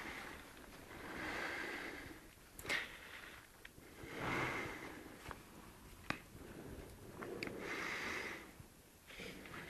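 A horse blowing and snorting through its nostrils: three long noisy breaths, about every three and a half seconds, with a few sharp knocks in between.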